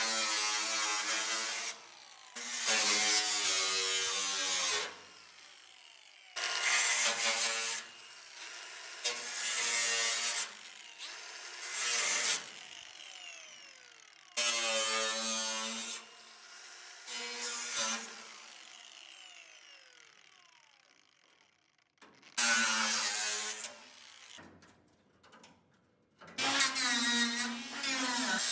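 Handheld power tool working on car-body sheet metal in about ten short bursts, each trigger pull running up to a steady motor pitch with a harsh hiss of cutting or grinding, then winding down with a falling whine when released.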